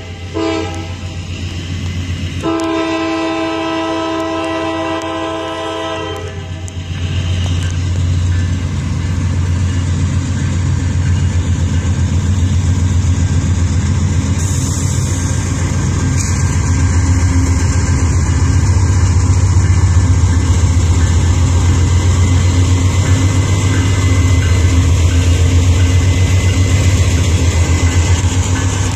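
Diesel freight locomotive's horn sounding a chord: a blast that cuts off just after the start, then a longer blast of about four seconds. After it, the low rumble of the locomotives' diesel engines grows steadily louder as the Norfolk Southern train approaches.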